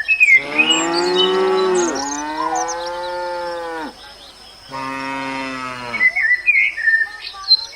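Cow mooing: a long drawn-out moo lasting about three and a half seconds, then a shorter moo about a second later.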